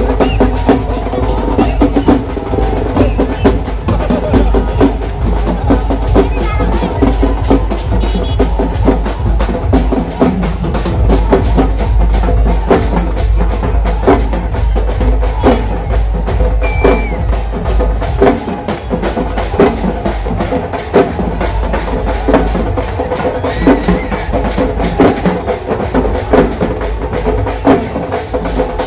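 Loud music driven by fast, steady drumming and percussion, with sharp beats repeating several times a second and voices mixed in.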